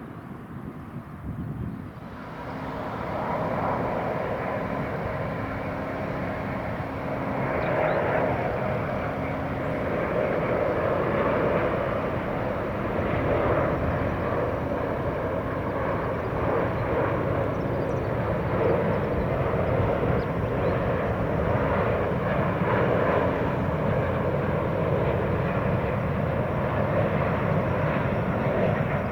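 Airbus A350 with Rolls-Royce Trent XWB turbofans on arrival: jet engine noise that comes up about two seconds in and then runs steadily.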